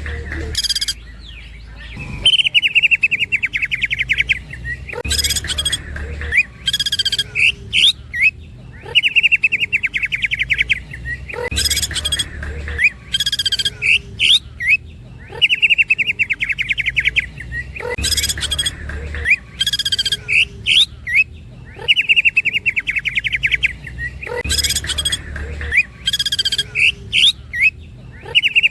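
Green leafbird (cucak ijo) singing a rolling song: a fast high trill of about a second and a half, followed by sharp piercing notes that recall a woodpecker. The same phrase repeats about every six and a half seconds.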